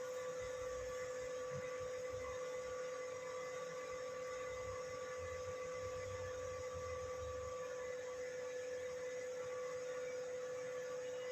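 A steady, unbroken electronic tone at one pitch, with faint low rumbling about halfway through.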